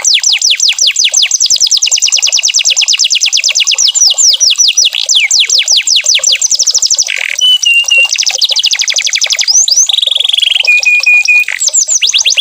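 Canary singing a long, unbroken song of rapid trills: fast runs of repeated high sweeping notes, changing to a different note shape every second or two, twice breaking into a short trill of flat, even-pitched notes.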